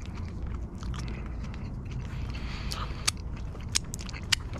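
A person chewing a mouthful of griddled onion smash burger with crispy-edged onions, with a few sharp clicks in the second half.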